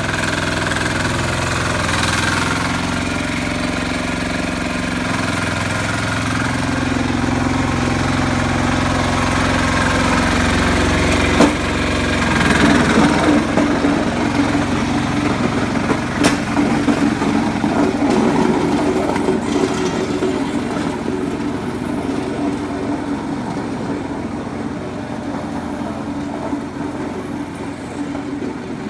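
Sears 8XL diesel engine running steadily with a knocking diesel note. About twelve seconds in, its note shifts and a rougher noise joins, with a couple of single clicks.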